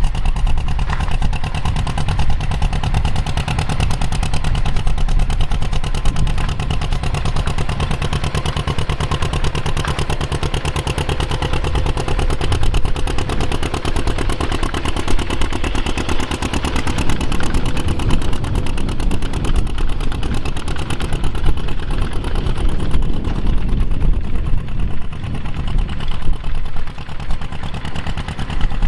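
Engine of vintage farm machinery running steadily, with a fast, even beat of firing pulses and some mechanical clatter.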